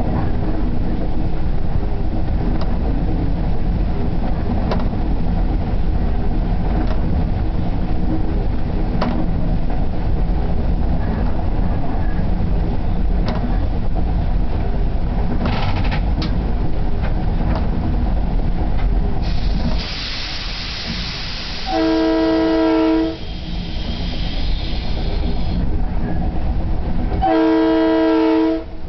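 Long Island Rail Road train heard from the cab car, running with a steady rumble and occasional sharp rail-joint clicks. About 20 s in, a hiss of air starts and the rumble drops. The train horn then sounds two blasts about five seconds apart, each a chord of several tones lasting just over a second, as a warning for the grade crossing ahead.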